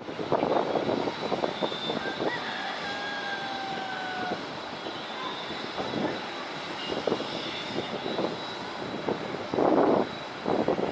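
Airbus A380's jet engines running, a steady rush with a faint whine, while gusts of wind buffet the microphone.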